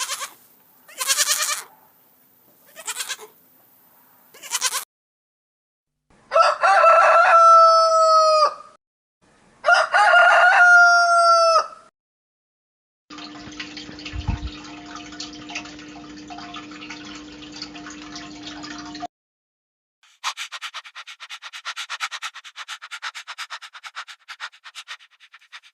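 A rooster crowing twice, each crow about two seconds long and dropping in pitch at the end; these are the loudest sounds. Around them come short animal calls, a steady hum, and a fast chattering near the end.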